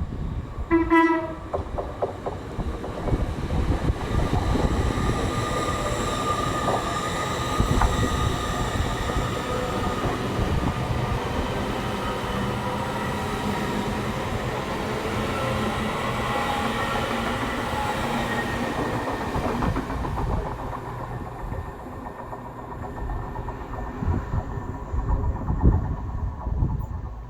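A train sounds a short horn blast about a second in, then runs through with steady running noise and wheels on the rails, fading away after about twenty seconds.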